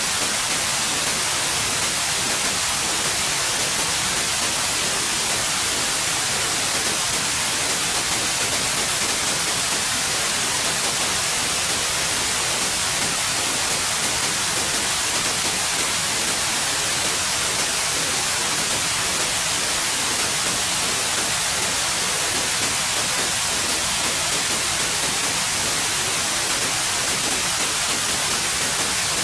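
Steady white noise: an even, unchanging hiss with most of its weight in the high end.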